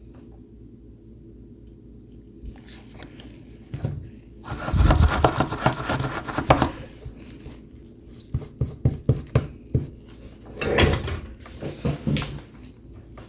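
Handling noises of hard parts and objects being moved and rubbed, with irregular clicks and knocks and two louder rustling, scraping stretches a few seconds in and near the end. A steady low hum runs underneath.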